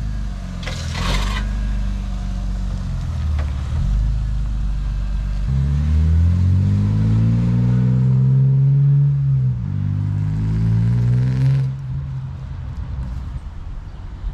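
BMW E36 sedan's engine pulling away and accelerating: the engine note climbs, drops sharply at a gear change about nine and a half seconds in, then climbs again before fading as the car moves off.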